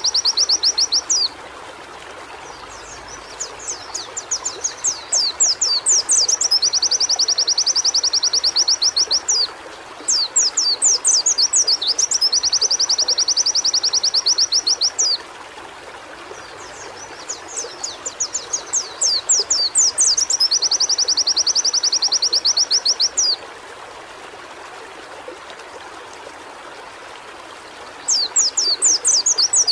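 White-eye (pleci) singing: bouts of quick down-sweeping notes that run into long, fast, high trills of several seconds each, repeated several times with pauses of a few seconds between, over a steady background hiss.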